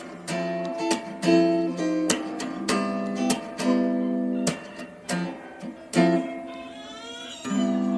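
Acoustic guitar music with chords strummed in a steady rhythm.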